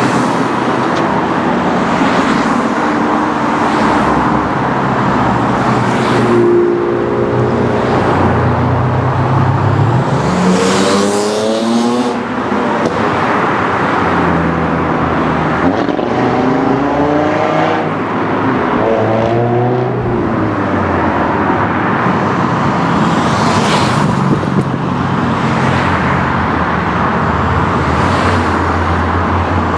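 Car engines running and accelerating away, two rising pitch sweeps of revving through the gears about a third and two thirds of the way in, over steady engine running.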